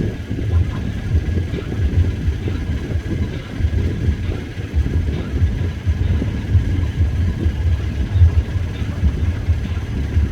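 Low, uneven engine rumble of a passenger fast boat departing port.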